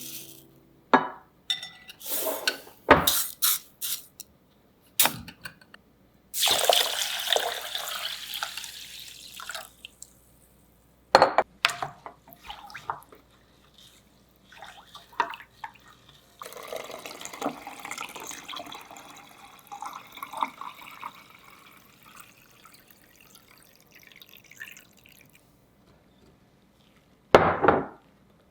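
Kitchen tap water running into a sink in two stretches, the second fading out, with sharp clinks and knocks of dishes in between.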